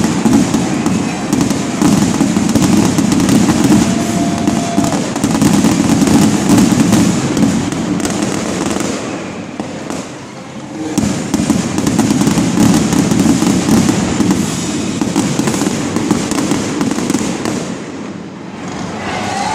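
Aerial fireworks in a rapid, continuous barrage of bursts and crackling, easing briefly about halfway through and again near the end.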